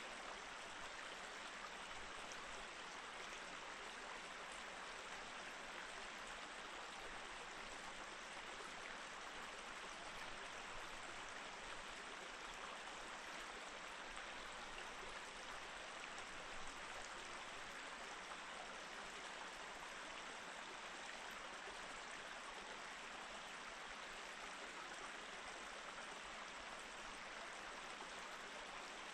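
Mountain stream running steadily over rocks: an even, continuous rush of water.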